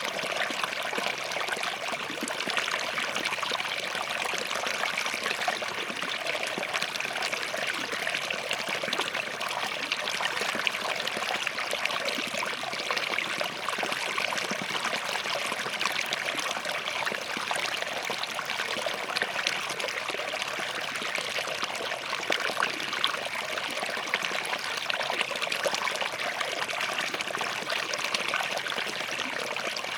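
Small forest stream flowing and trickling over rocks, a steady splashing babble.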